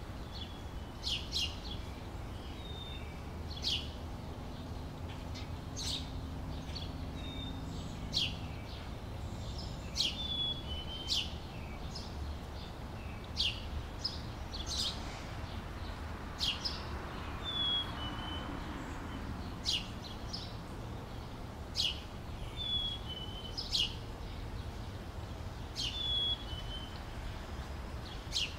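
A small bird calling over and over, a sharp high chirp about every one to two seconds, often followed by a short lower note, over a steady low background rumble.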